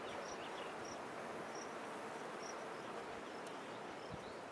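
Faint outdoor ambience with a short, high chirp repeating about once a second.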